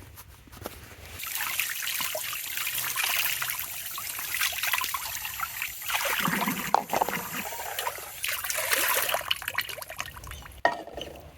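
Water trickling and running, starting about a second in, swelling at times and stopping just before the end.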